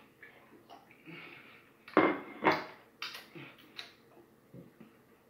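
Chewing and smacking on a mouthful of raw honeycomb, its wax chewed like gum: a string of short, irregular smacks, the loudest two close together about two seconds in.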